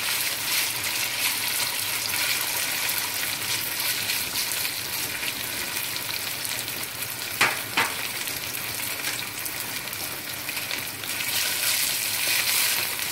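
Marinated chicken strips sizzling as they shallow-fry in a little oil in a nonstick kadai, stirred with a plastic spatula. Two sharp knocks, about half a second apart, a little past the middle.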